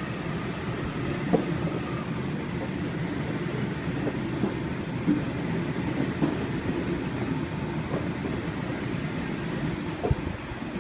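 Sydney Trains Waratah (A set) electric train pulling away from the platform: a steady rumble of the train running on the rails, with an occasional faint wheel click.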